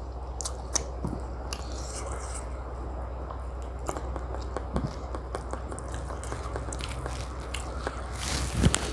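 A person chewing and biting chicken biryani and tandoori chicken close to the microphone: scattered short wet clicks and smacks over a steady low hum, with a louder burst of mouth sounds near the end.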